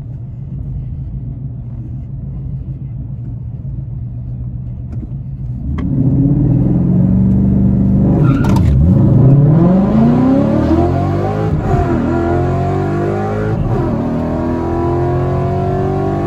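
Ford Mustang GT's 5.0 V8 running at low revs, then launching on a drag strip pass about six seconds in and revving hard up through the gears, the pitch dropping at each upshift before climbing again.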